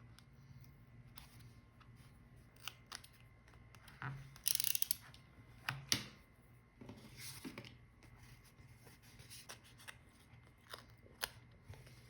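Paper and stationery being handled at close range: scattered light taps and clicks, a short loud paper rustle about four and a half seconds in, two sharp clicks just before six seconds, and softer rustling a second later.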